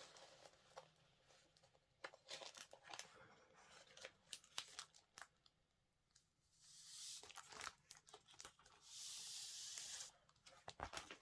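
A packet of A4 adhesive sheets being torn open and handled: faint rustles and small clicks, then two longer tearing sounds, one about seven seconds in and one about nine seconds in.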